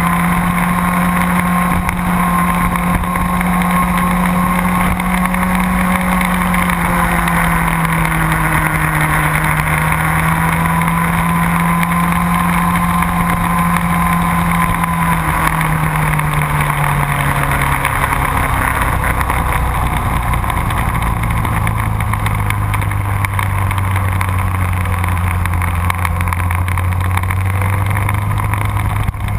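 Motorcycle engine running at speed with heavy wind rush. The engine note holds steady, then drops in pitch in steps about halfway through and stays lower.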